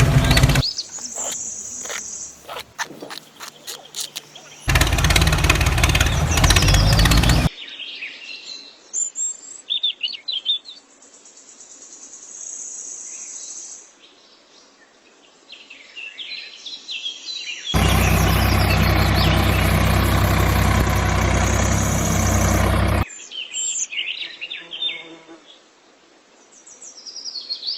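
Birds chirping, interrupted twice by a few seconds of loud, steady motor noise that starts and stops abruptly.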